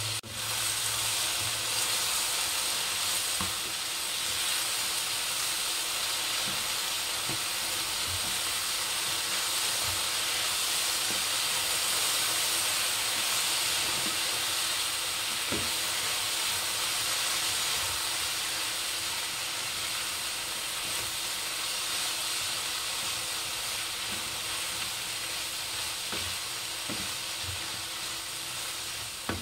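Sliced onions, potatoes and okra sizzling in oil in a nonstick frying pan as they are stir-fried with a spatula: a steady hiss, with a few soft knocks of the spatula against the pan.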